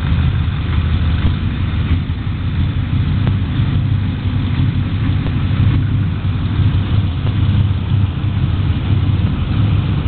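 1973 Chevrolet Corvette's V8 engine running steadily at a low rumble, on its first run after sitting for years.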